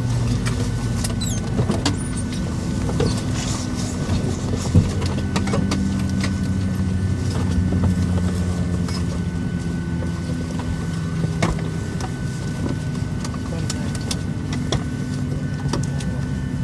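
Steady hum inside a Boeing 737-800 cabin on the ground after landing. Several low drones shift slowly in pitch, with scattered light clicks and one sharper knock about five seconds in.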